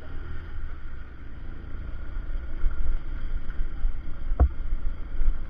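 Motorcycle running with a low, uneven rumble, and one sharp knock about four and a half seconds in.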